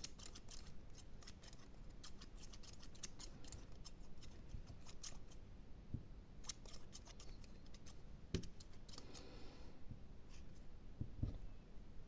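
ASMR scratching and gripping triggers on an object held close to the microphone: rapid runs of crisp, sharp clicks and scratches that come in irregular bursts and thin out near the end, with a couple of soft thumps.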